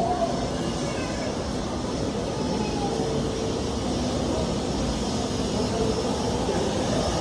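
Airbus A320neo's jet engines running, a steady rushing noise with a faint steady hum underneath.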